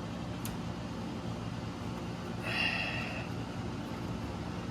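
A steady low mechanical hum, with a single sharp click about half a second in and a short breathy snort a little past halfway.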